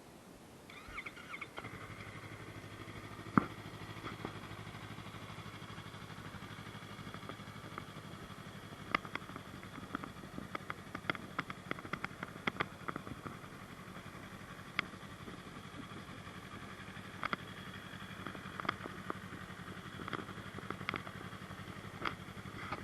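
2024 Yamaha MT-03's 321cc parallel-twin engine through its stock exhaust, starting up about a second in and then idling steadily. Scattered short sharp clicks sound over the idle.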